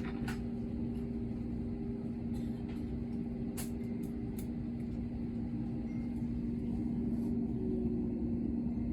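Steady airliner cabin drone from the engines and air system, with a constant low hum and a few faint clicks.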